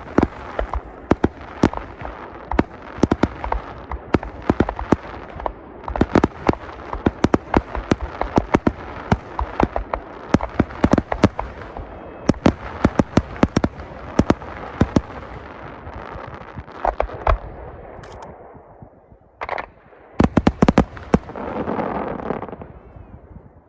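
Fireworks display: a dense, rapid barrage of bangs, several a second. The barrage thins out near the end, with a last cluster of bangs and then a swelling rush of noise.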